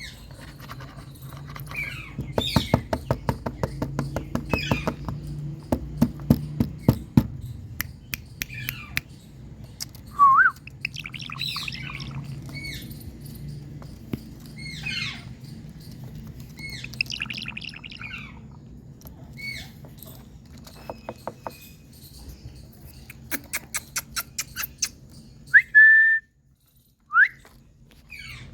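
Indian ringneck parakeet calling: scattered short chirps and squawks, a few sharp rising whistles, and two runs of rapid clicks.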